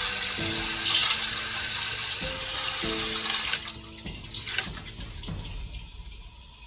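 Kitchen tap running water into a bowl, filling it for an ice-water bath; the flow stops a little past halfway.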